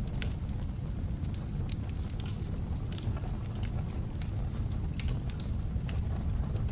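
Wood fire crackling with scattered sharp pops, a louder one about three seconds in, over a steady low rumble of blizzard wind.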